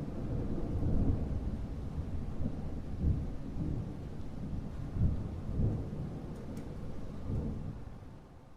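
Thunder rumbling over rain, rolling in several deep swells, then fading away near the end.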